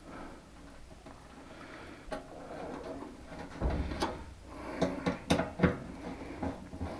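Scattered clicks and knocks of parts being handled while a central air unit is reassembled, with several sharper knocks and a dull low thud in the second half.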